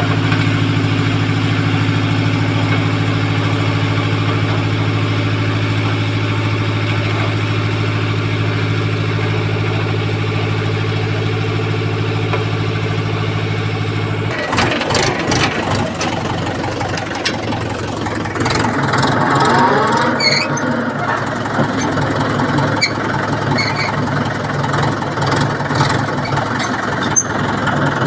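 A motor running with a steady low hum. About halfway through it gives way to irregular rattling, clicking and short squeaks.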